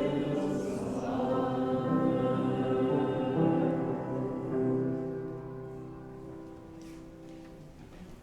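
Choir singing, ending on a held chord that fades away over the last few seconds.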